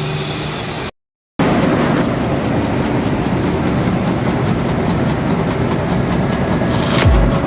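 Heavy industrial machinery running with a steady rumble and a light, regular clatter. It starts abruptly about a second and a half in, after music and a brief silence, and a low swelling sound rises just before the end.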